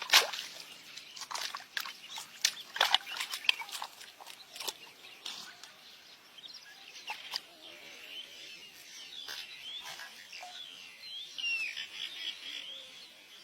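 Animal calls: a run of sharp clicks in the first few seconds, then short high chirps that rise and fall.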